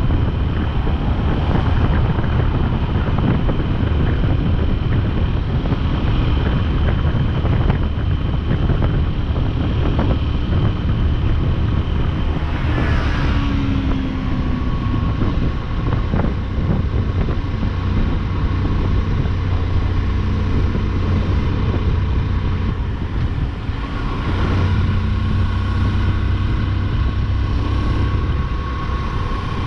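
Motorcycle engine running steadily at road speed under heavy wind rush on the microphone, with the engine note changing briefly about halfway through and again near the end.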